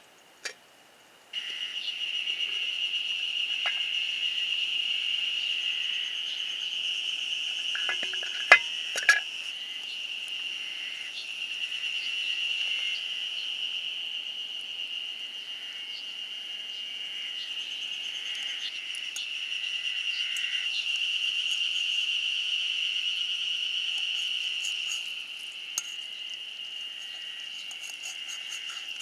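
Insects chirring steadily in one high, continuous tone that swells and fades slowly, with a few sharp clicks about eight seconds in.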